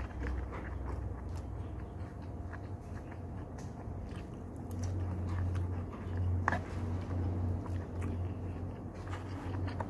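A person eating close to the microphone: chewing and biting food, with small clicks of a metal spoon against a takeaway lunch box. A low rumble comes in underneath about halfway through.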